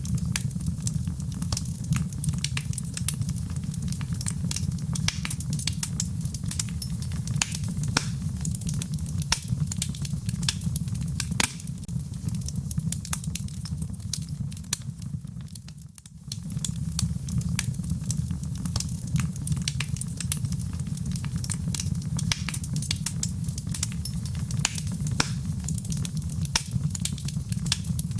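Wood fire crackling, with frequent sharp pops and snaps over a steady low rumble. The sound dips briefly about halfway through, then carries on.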